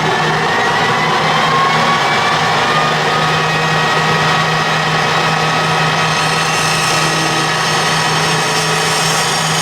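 Colchester metal lathe running while a long 10 mm drill bit bores down the length of a half-inch brass bar: a steady motor hum with thin, steady high whining tones from the cut.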